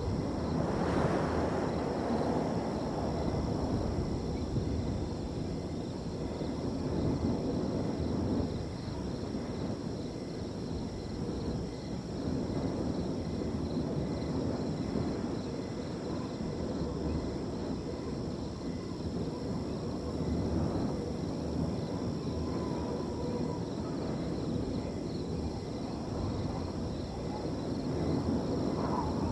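Wind gusting through a field, a low rushing that swells and eases, strongest about a second in, with crickets trilling steadily above it.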